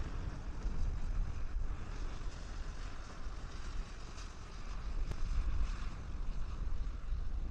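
Wind buffeting an outdoor microphone, a steady low rumble with a hiss that swells and fades.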